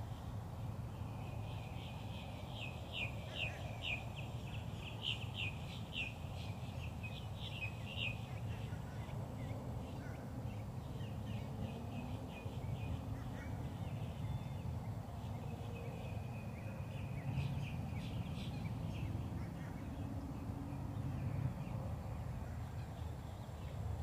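Birds calling in quick runs of short chirps, the busiest run in the first several seconds and more runs later, over a steady low rumble.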